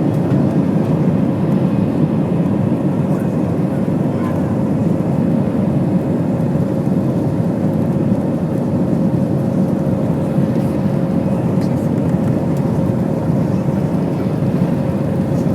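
Airliner engines running steadily, heard inside the passenger cabin during takeoff: a dense, even noise with a constant tone held over it.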